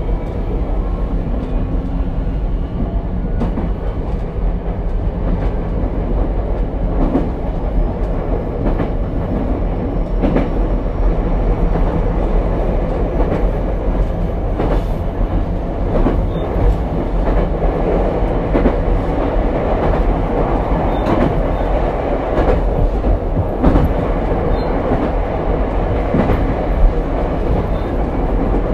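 Ichibata Electric Railway 7000-series railcar 7001 running at speed, heard inside the car: a steady rumble of wheels on rail with irregular clacks as the wheels pass rail joints, and a faint rising electric motor whine in the first few seconds.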